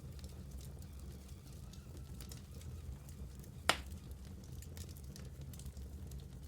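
Wood fire burning in a fireplace: a steady low rumble with scattered small crackles, and one loud sharp pop a little over halfway through.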